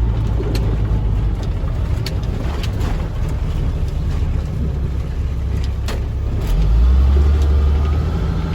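Box truck's engine and road noise heard from inside the cab, a steady low drone that grows louder about six and a half seconds in as the truck speeds up, with a few faint clicks.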